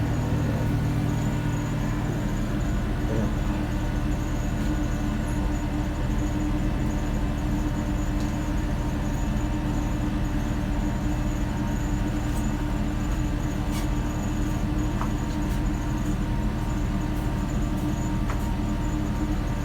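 Steady drone of a tanker ship's machinery: an unbroken low hum with several held tones, and a few faint clicks in the second half.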